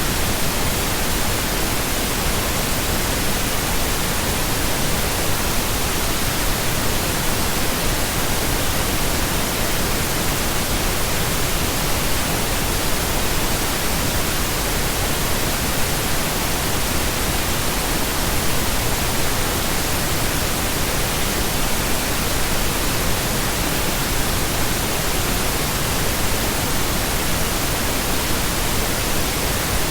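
Continuous pink noise: a steady, even hiss spread across the whole range, unchanging and without any tones or events.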